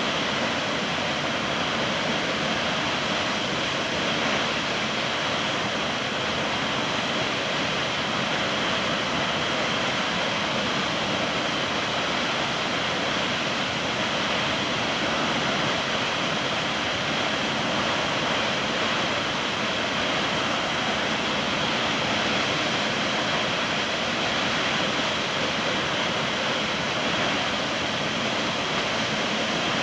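Water rushing and falling steadily, an even, unbroken noise with no change in strength.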